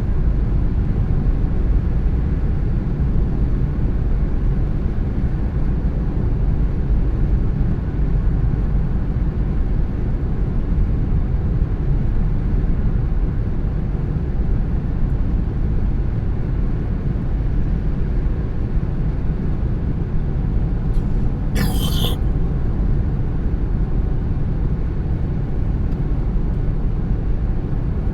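Car driving along at a steady pace: a continuous low rumble of engine and tyres on the road. Near the end comes one short burst of hiss lasting under a second.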